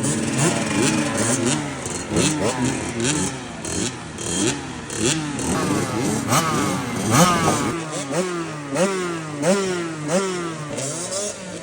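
KTM dirt bike engine revving up and dropping off again and again, about one to two times a second, as the throttle is worked over rough enduro terrain.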